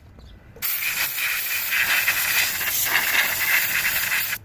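Compressed-air blowgun blasting through the jets and passages of a snowblower's carburetor to clear them: one long hiss that starts about half a second in and cuts off sharply near the end.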